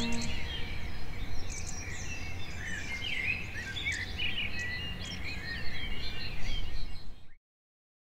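Birds chirping and twittering, many short calls over a steady low background rumble, as the last held chord of music ends just after the start. The sound cuts off suddenly about seven seconds in.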